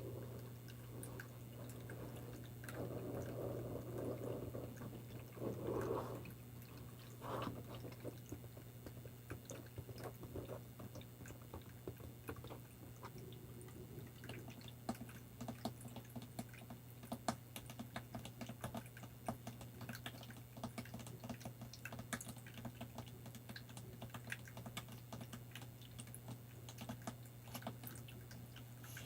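Close-miked ASMR trigger sounds: a few soft swishing noises in the first seconds, then a long run of light, quick taps and clicks on small objects, like fingernails tapping, over a steady low hum.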